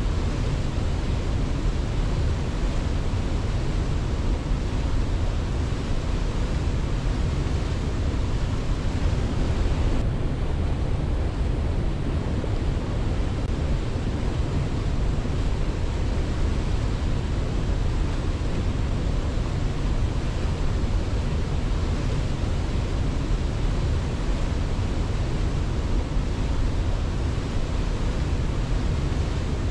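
Steady, unbroken rush of water, strongest in the deep low end, with the upper hiss dipping slightly about ten seconds in.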